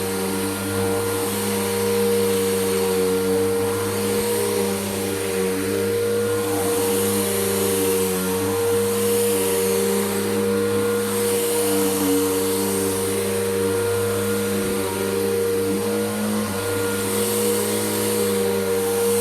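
Bissell Powergroom Helix Rewind upright vacuum running steadily: a constant motor whine under a rushing hiss that swells and fades a few times.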